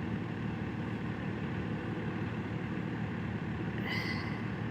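Steady distant rumble of a heavy truck's engine running, with a brief faint high-pitched sound about four seconds in.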